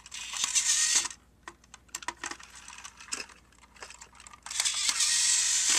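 Battery-powered toy train's small electric motor and gears whirring in two runs, one of about a second at the start and a longer one from near the end, with light plastic clicks between them.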